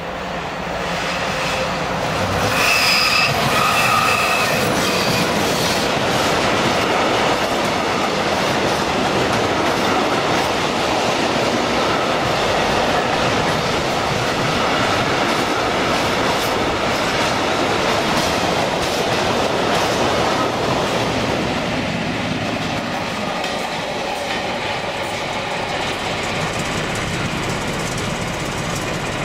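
A freight train of tank wagons hauled by a DB Class 151 electric locomotive passing close by, wheels clattering over the rail joints. High wheel squeal on the curve rings out for a few seconds about two seconds in.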